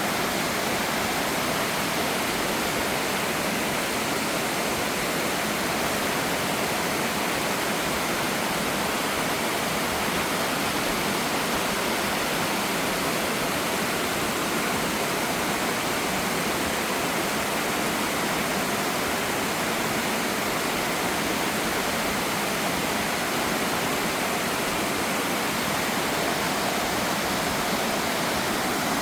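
Waterfall and fast-flowing creek rushing steadily, an even hiss of water with no breaks.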